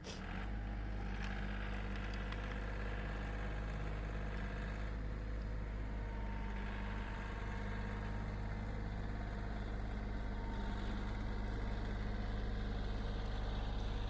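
Engine idling steadily, a low even hum with no change in speed.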